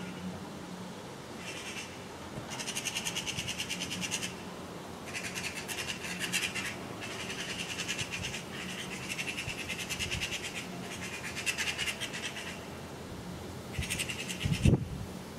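Eurasian magpies chattering: a run of rapid rattling calls in bursts of one to two seconds, one after another. Near the end there is a single loud, low thump.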